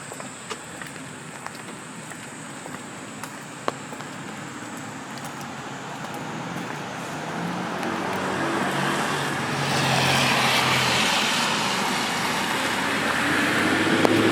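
A car passing on a wet road: tyre hiss and engine getting steadily louder over several seconds, loudest about ten seconds in and again near the end. A few sharp ticks sound in the first seconds.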